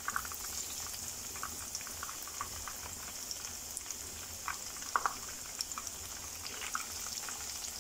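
Breaded chicken rolls frying in hot olive oil in a pan: a steady sizzle with scattered crackling pops, the sharpest about five seconds in.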